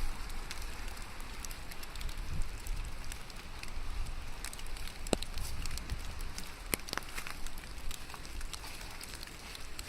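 Steady rain falling, an even hiss with scattered sharp drops tapping through it, over a low rumble.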